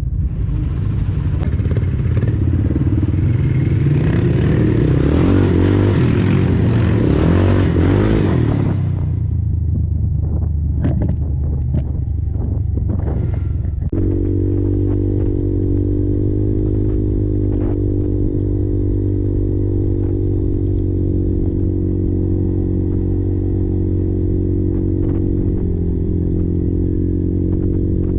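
Kymco Maxxer 300 quad's single-cylinder four-stroke engine under way. For about the first third it pulls hard under a loud rushing noise, which then drops away with a few sharp clatters. About halfway through the engine settles into a steady, even pitch.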